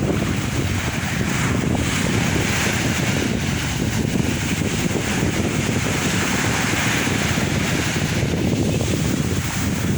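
Sea waves breaking and washing in, with wind buffeting the microphone; the hiss of the surf swells about two seconds in and eases off near the end.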